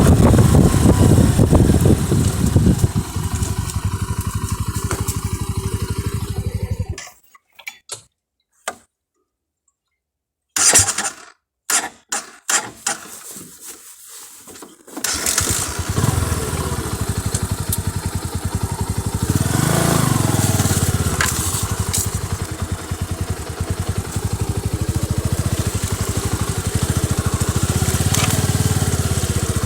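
A Bajaj Boxer motorcycle's engine runs, then cuts out about a quarter of the way in. After several seconds with only a few short clicks, the engine is running steadily again from about halfway to the end.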